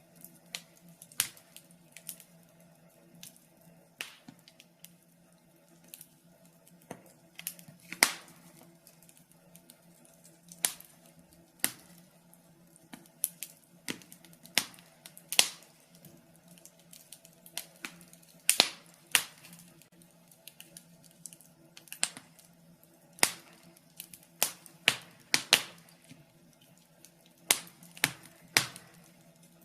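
Wood fire in a fireplace crackling, with irregular sharp pops about once a second over a faint steady hum.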